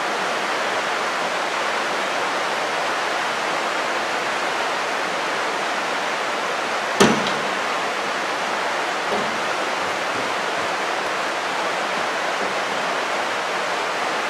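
Steady rain falling, an even hiss throughout, with one sharp click about halfway through.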